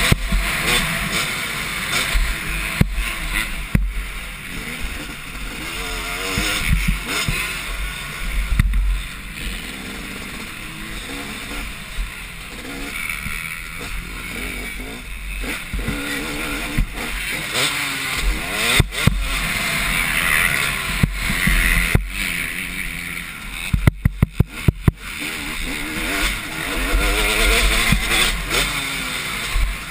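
Two-stroke motocross bikes racing, their engines revving up and falling back repeatedly as they work the track. A quick series of sharp knocks comes about three-quarters of the way through.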